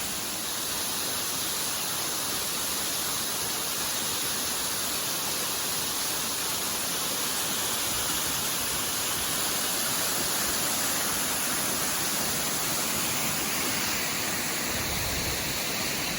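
Steady rushing of a waterfall about 50 to 60 feet high.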